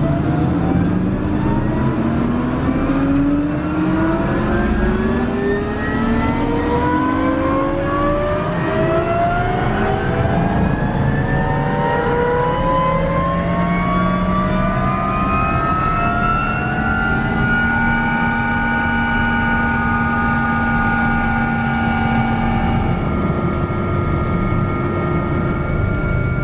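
Helicopter turbine engine starting up: a whine with several tones rising steadily in pitch for about seventeen seconds, then levelling off into a steady whine. A faint high whistle joins near the end.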